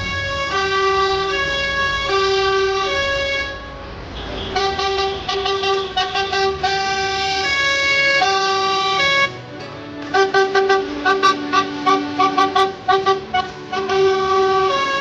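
Vehicle horns sounding in patterns of alternating pitched tones: a siren-like two-tone call repeated for the first few seconds, then held notes of varying pitch, then quick stuttering toots from about ten seconds in.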